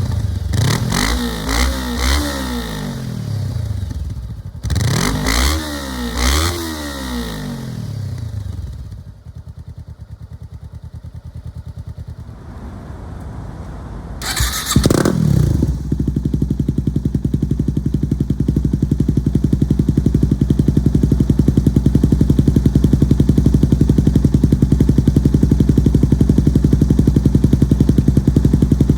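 Motorcycle engine with an aftermarket exhaust revved in several quick blips that rise and fall, then dropping to a quieter idle. About halfway through, a motorcycle engine fires with a sudden bang and settles into a loud, steady idle with an even beat.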